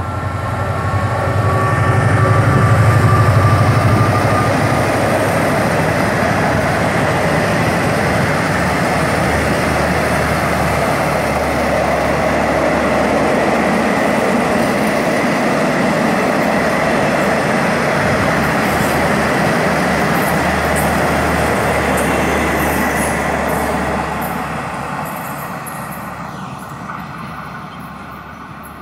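Diesel locomotive hauling a passenger train passes close by. Its engine is loudest in the first few seconds, then the steady rumble and rattle of the coaches rolling past carries a thin high whine, and the sound fades away over the last few seconds as the train draws off.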